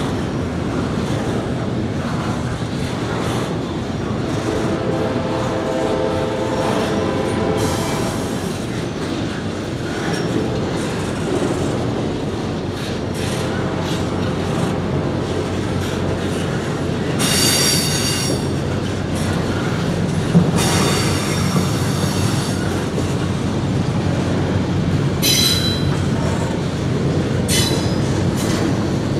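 Double-stack intermodal freight cars rolling steadily through a grade crossing, with a continuous rumble and clatter of wheels on rail. High wheel squeal rises over it at about 17 seconds, again at about 20 seconds, and in shorter bursts near the end.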